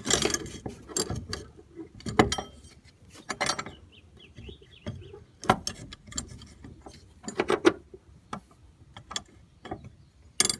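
Irregular clicks, knocks and short rattles of metal parts being handled while a lawnmower's belt is worked back onto its pulleys by hand.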